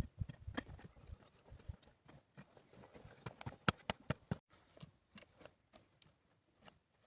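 A series of irregular sharp knocks and clicks, with dull low thumps in the first second and the loudest knocks a little past the middle.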